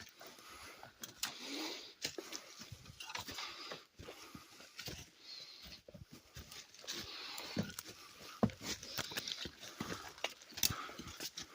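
Footsteps crunching and rustling through forest-floor litter and twigs on a steep climb, with frequent small snaps and scuffs.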